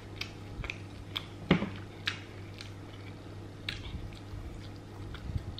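Close-miked chewing and wet mouth clicks from someone eating with their fingers, scattered small clicks over a low steady hum.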